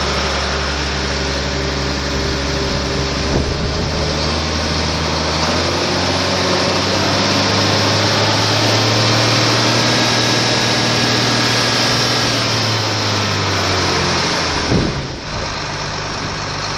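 Case IH 8940 tractor's six-cylinder diesel running just after starting; engine speed rises about six seconds in, holds, then eases back down to idle. One sharp knock near the end.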